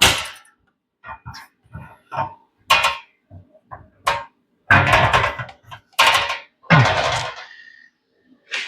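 Metal parts being handled and set down on a workbench: irregular knocks and clatters, several of them lasting up to about a second.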